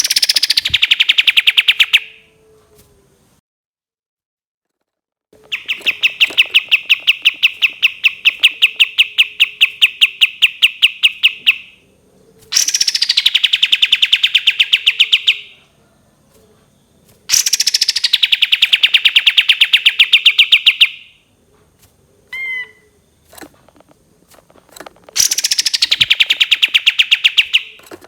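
Kapas tembak songbird giving its long 'tembakan' call: five runs of rapid, sharp repeated notes, each lasting a few seconds, separated by short pauses, with a few single chips between the fourth and fifth run.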